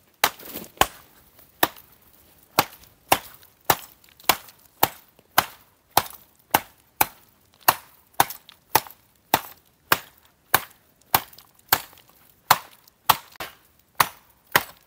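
Steady chopping into dry, very hard wood with a hand blade, about two sharp strokes a second.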